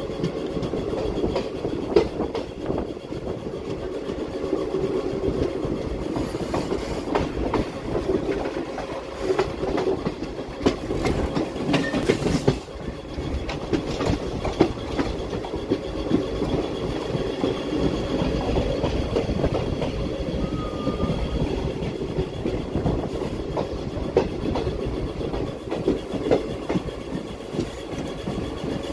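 Express passenger train running at speed, heard from an open coach door: a steady rumble of wheels on rail, with repeated clickety-clack as the wheels cross rail joints.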